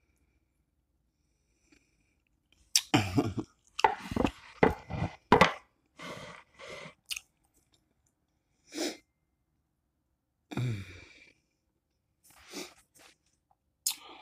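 A person biting and chewing a mouthful of chicken quesadilla with jalapeños. A run of loud chewing sounds comes about three to six seconds in, then a few scattered quieter ones.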